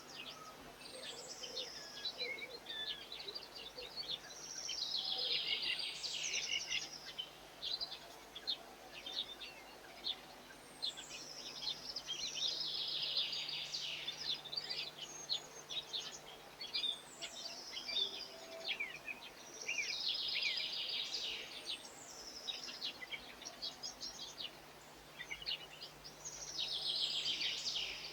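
A songbird repeating the same short, high, twittering phrase every five to seven seconds, each phrase opening with a few falling notes, with scattered chirps in between.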